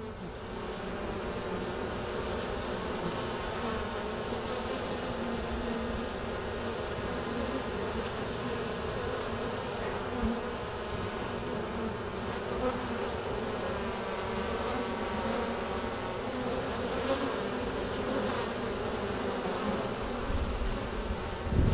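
A steady, dense buzz of many honeybees flying around the entrance of a strong, busy colony. A brief low rumble comes in near the end.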